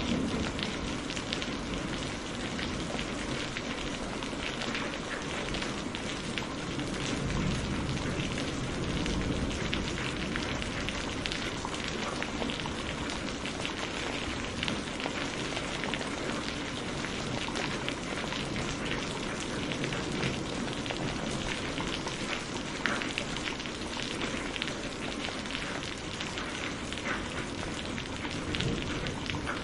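Heavy rain falling steadily, a dense even hiss with many individual drop hits.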